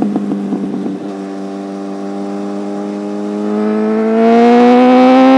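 Motorcycle engine running with a rapid clatter in the first second, then settling into a steady note that rises in pitch and grows louder as the bike accelerates near the end.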